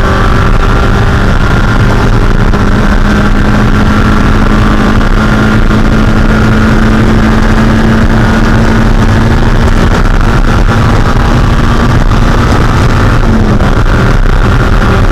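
Spec Miata's 1.6-litre four-cylinder engine running loud at steady, sustained revs at racing speed. The engine note holds nearly constant and steps up slightly about thirteen seconds in.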